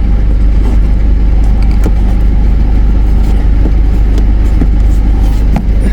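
Four-wheel drive moving over a rough, rutted dirt track, heard from inside the cabin: a steady low engine and road rumble with scattered knocks and rattles from the rough ground.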